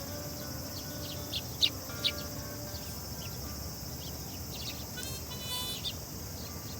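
Sparrows chirping: scattered short, sharp chirps, the loudest a couple of them about one and a half to two seconds in.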